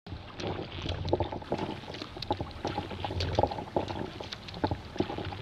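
Sea kayak paddling on calm water: the paddle blades dipping and water splashing and dripping in many small, irregular splashes and drips over a low steady rumble.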